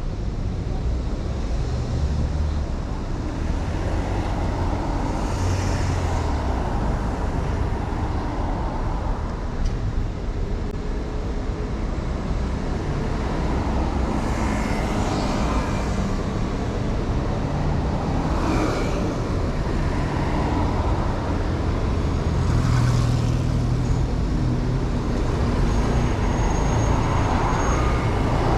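Honda 125cc motorcycle running as it rides through city traffic, its engine note shifting with the throttle, under steady wind rush on the microphone. Other vehicles swell past several times.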